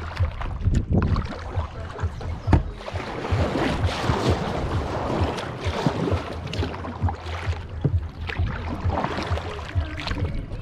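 Kayak paddle strokes splashing and dripping water, with wind buffeting the microphone.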